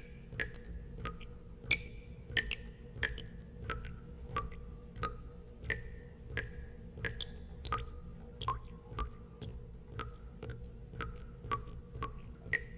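Water drops falling one after another into water, each a sharp plink with a short ringing tone, at irregular intervals of about one and a half to two a second and at varying pitches, over a steady low rumble.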